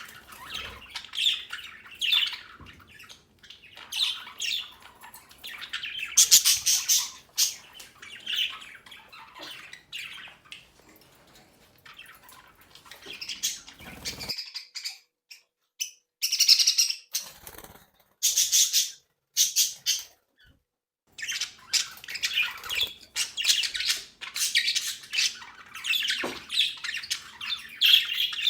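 Budgerigars chattering, chirping and squawking over one another in irregular bursts, with two short silent gaps past the middle.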